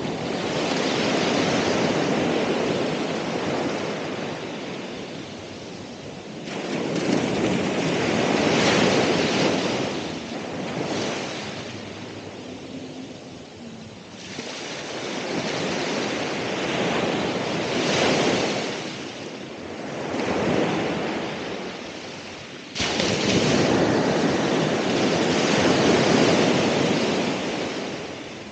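Ocean waves breaking and washing up the shore, swelling and ebbing in repeated surges every few seconds, with a sudden louder break about three quarters of the way through.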